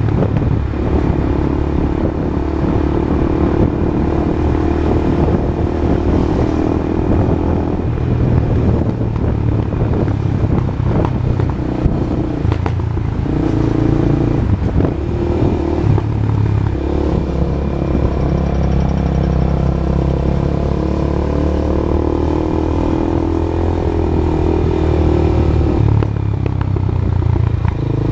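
Honda CB Twister single-cylinder motorcycle engine running through a new aftermarket exhaust. The engine note steps up and down in pitch several times.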